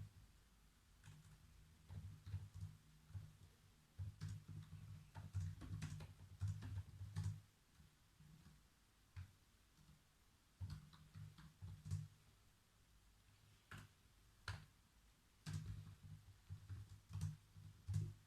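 Faint typing on a computer keyboard, the keys clicking in irregular bursts of a few seconds with short pauses between.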